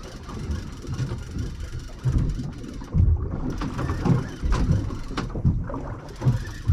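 Irregular low thumps and knocks with wind buffeting the microphone on a small anchored fishing boat, as a fish is reeled in and handled at the side.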